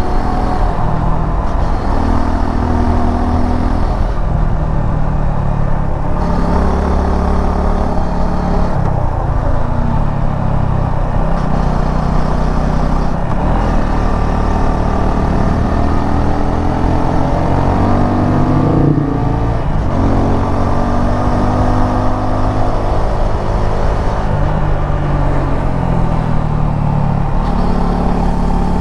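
Suzuki V-Strom 250 SX's single-cylinder engine running under way, its pitch rising and falling again and again as the bike accelerates, shifts and eases off, over steady wind and road noise.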